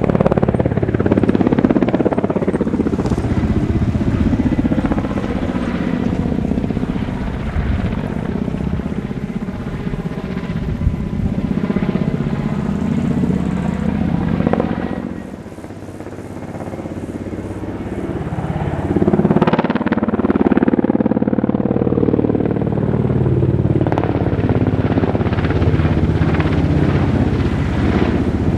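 Helicopter flying a display, its engine and rotor sound shifting with a sweeping whoosh as it manoeuvres. The sound dips about halfway through and swells again a few seconds later.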